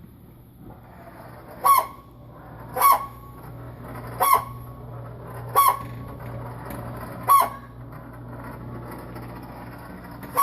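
Refrigerator making short, squeaky bird-like squawks, like a cackling bird or a duck call, six times at uneven gaps of about a second and a half, over its steady low hum.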